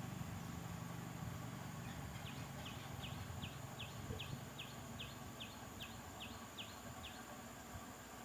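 A bird calling in the background: a run of short, high chirps, each sliding downward, about three a second, starting about two seconds in and stopping a little past halfway. A faint low hum fades out early on.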